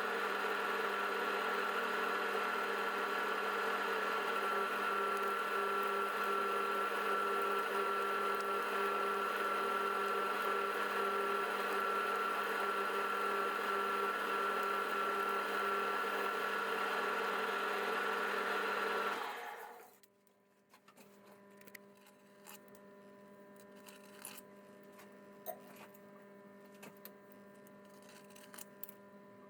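Electric workshop machine motor running steadily with a constant whine, then switched off about nineteen seconds in and quickly winding down. After that only a faint electrical hum and a few small clicks remain.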